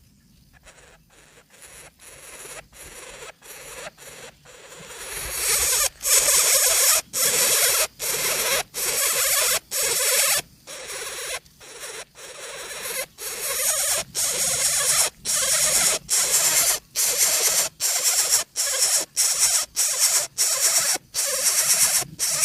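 Coucal nestlings giving harsh, rasping hisses over and over, about one to two a second, typical of begging chicks. The calls build up over the first few seconds and then keep going loudly.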